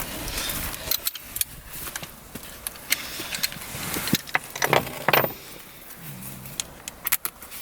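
Metal tools and fittings being handled: a run of small clinks, rattles and knocks, with a few louder knocks around the middle.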